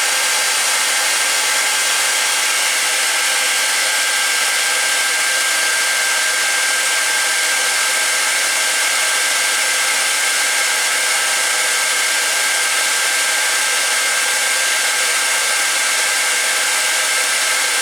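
Handheld hairdryer running steadily: a loud, even rush of air with a thin, steady high tone.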